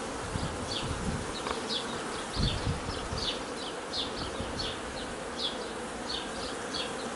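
Swarm of honeybees buzzing around an opened hive, a steady hum. Short high chirps recur about twice a second over it, and there is a low thump about two and a half seconds in.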